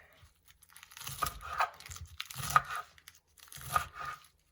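Knife cutting through crisp garden lettuce leaves, three bouts of crunching and tearing as the leaves are chopped.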